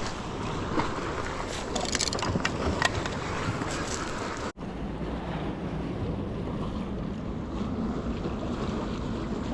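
Wind rushing over the microphone with ocean surf washing in the background, a few light clicks in the first half. The sound cuts out for a split second about halfway through, then the wind and surf resume with less hiss.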